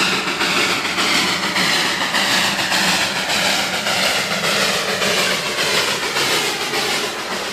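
Darjeeling Himalayan Railway toy train running, a steady rail noise with a faint tone that slowly falls in pitch through the middle.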